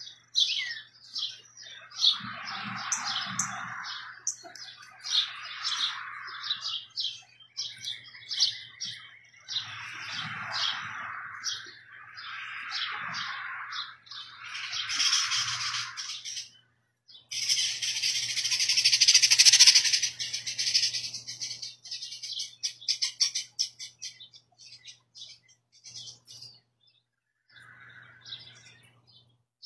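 Small birds chirping rapidly and repeatedly, with recurring patches of rustling noise, the loudest a few-second burst a little past the middle.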